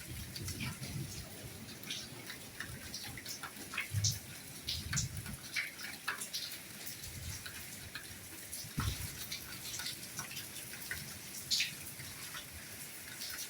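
Soft rain falling steadily, with many separate drops ticking and splashing over a steady hiss, and a few low thuds now and then.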